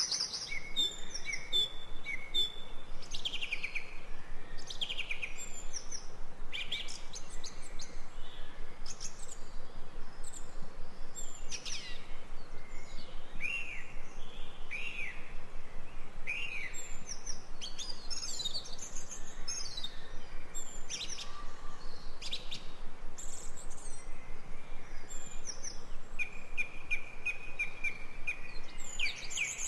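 Several forest birds calling and singing at once: many short chirps and quick downward-sweeping whistled notes, with a steady run of evenly repeated notes near the end.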